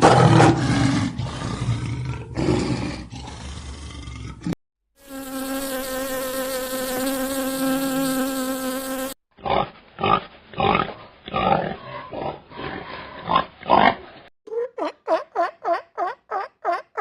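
A run of short animal-sound clips cut one after another: a rough, low call, then a steady insect-like buzz, then a string of short irregular calls, and near the end rapid repeated chirps, about three a second.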